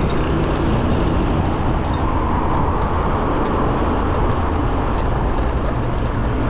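Steady road and traffic noise with wind rush, heard while riding an electric bicycle among cars.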